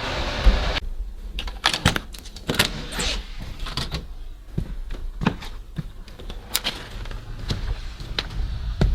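A steady rushing noise that cuts off about a second in, then a run of irregular clicks, knocks and rustles from someone moving about and handling things.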